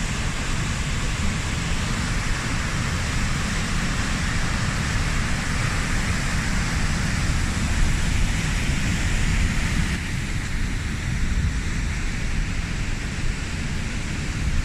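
High Force waterfall on the River Tees pouring into its plunge pool: a loud, steady rushing of falling water with a deep rumble beneath.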